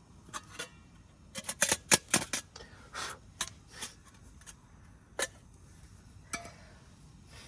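A run of sharp clicks and snips, a quick cluster about one and a half seconds in, then a few scattered single clicks.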